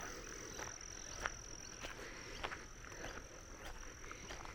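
Frogs calling faintly: short, sharp calls repeating roughly every half second, over a steady high-pitched insect drone.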